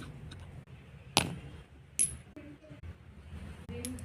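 Two light clinks about a second apart, the second with a brief high ring.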